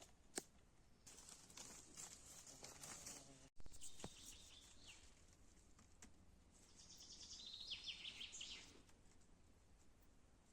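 Faint birdsong in woodland: short high chirps, then a fast run of repeated high notes about two-thirds of the way through, over soft rustling with a sharp click near the start.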